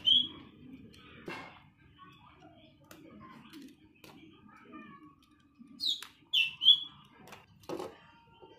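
A small bird chirping: a single short, high chirp at the start, then a quick run of three chirps about six seconds in, the first ones falling in pitch.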